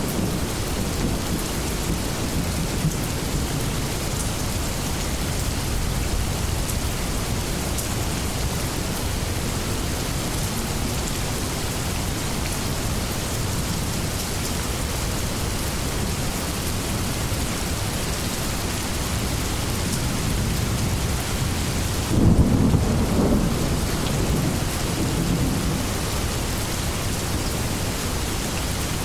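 Steady heavy rain, with a roll of thunder breaking in sharply near the end and rumbling off over a few seconds.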